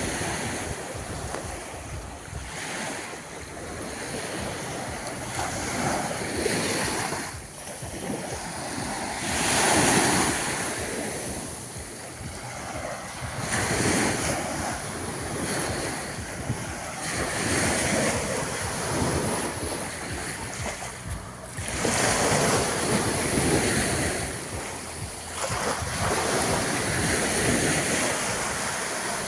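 Small waves washing onto a sandy beach, swelling and fading every few seconds, with wind buffeting the microphone.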